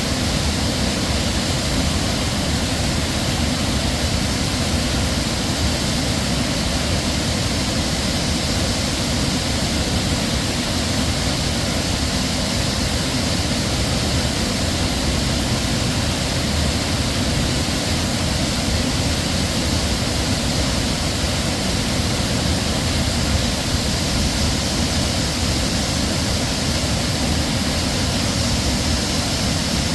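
Heavy waterfall: a loud, steady, unbroken rush of falling water.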